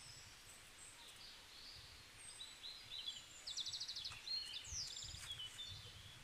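Small birds chirping and calling in the background, with a short rapid trill near the middle, over faint outdoor ambience.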